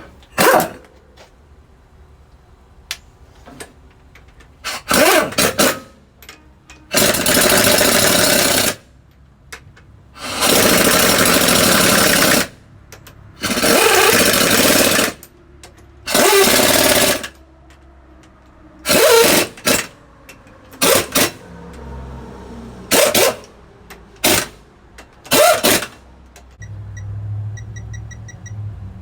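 Repeated bursts from a compressed-air tool, each lasting up to about two seconds, with short gaps between them, while bolt threads are being chased on a truck during a clutch and transmission job.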